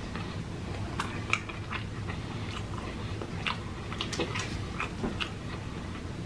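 Close-miked mouth chewing of fast food with the lips closed: irregular soft clicks and smacks over a low steady hum.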